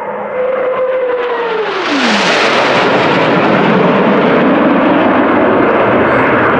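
A low-flying airplane passing by. Its engine tone drops steeply in pitch about two seconds in as it goes past, then gives way to a loud, steady roar.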